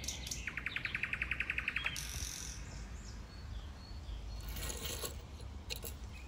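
A bird's quick trill of short, evenly repeated notes, about ten a second, starting about half a second in and lasting about a second and a half. Faint rustling noises follow.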